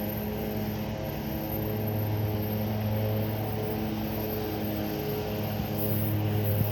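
A train locomotive running steadily with a low, even drone that holds one pitch throughout.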